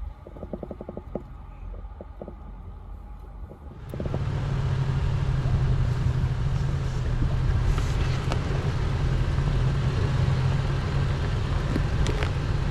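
Off-road 4x4 engine running under load on a rocky trail, with a few light clicks and knocks at first; about four seconds in it gets much louder and then holds a steady low drone.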